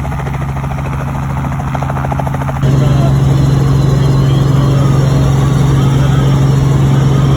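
Helicopter running close by: steady engine drone with the rapid chop of its rotor blades, getting suddenly louder about two and a half seconds in.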